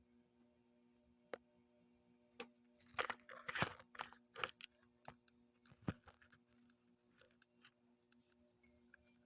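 Handling of metal parts and tools on a workbench: scattered light clicks, with a short spell of crunching, rustling handling noise about three seconds in and a sharp click about six seconds in, over a faint steady hum.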